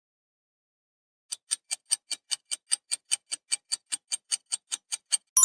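Clock-tick countdown sound effect: short, even ticks about five a second, starting after about a second of silence. A bright chime begins right at the end.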